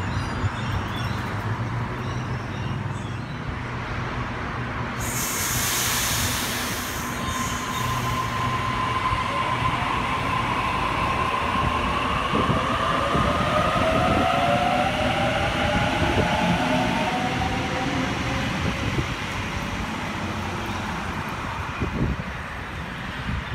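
Double-deck Sydney Trains electric trains running past the platform with a steady rumble. A sudden hiss comes about five seconds in, and a whining tone slides in pitch through the middle.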